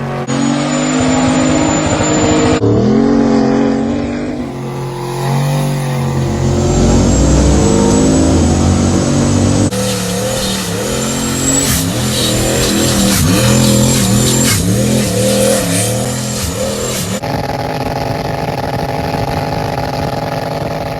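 Pickup truck engine revving and running through several abruptly cut clips, its pitch rising and falling, with a thin high squeal in the middle clips.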